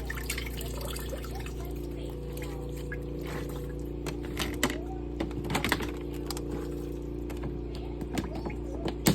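Portable washing machine running with a steady motor hum, water sloshing and splashing inside it, with scattered clicks and splashes, busiest about halfway through.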